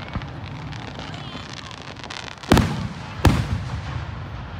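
Fireworks going off: two loud bangs in quick succession a little past the middle, over a steady background of crackling and distant booms from other fireworks.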